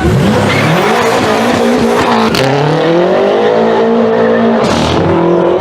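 Sports car engine accelerating hard, its pitch climbing, dropping at a gear change a little over two seconds in, then climbing again and falling away near the end.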